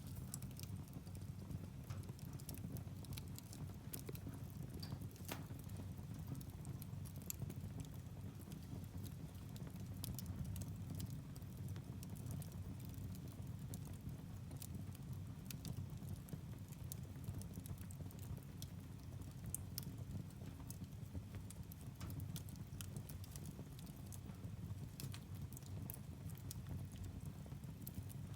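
Firewood burning in a fireplace: a low steady rumble of the fire with irregular sharp crackles and pops from the logs.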